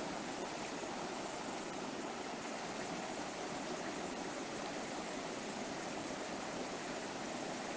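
A shallow river flowing over rocks: a steady, even rushing of water.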